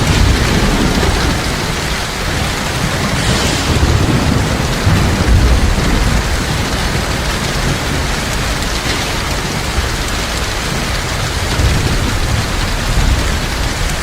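Heavy rain pouring steadily, with low rolling thunder that swells a few times.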